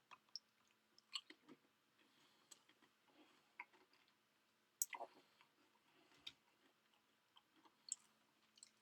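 Sparse mouth and eating sounds close to the microphone: soft chewing clicks and small crunches, the sharpest about five seconds in, over a faint steady hum.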